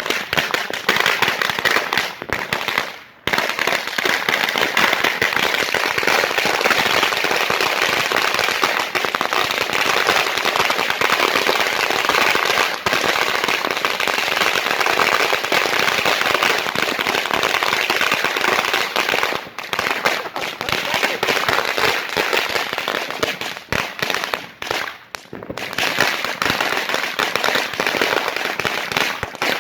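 A brick of firecrackers going off as one continuous rapid crackle of hundreds of overlapping pops, briefly pausing about three seconds in, then thinning into more scattered bangs with short gaps over the last ten seconds.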